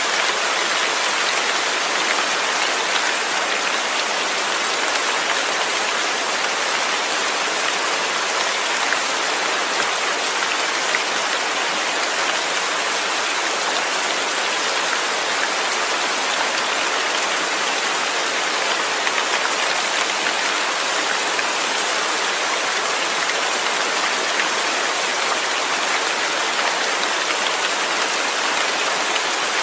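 Steady heavy rainfall pattering on a surface, a constant even hiss of drops.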